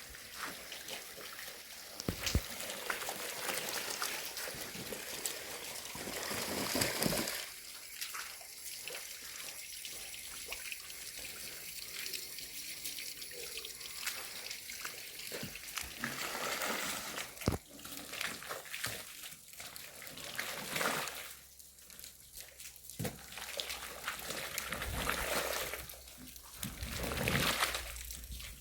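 Water running and splashing unevenly, swelling and easing several times, with a few sharp knocks.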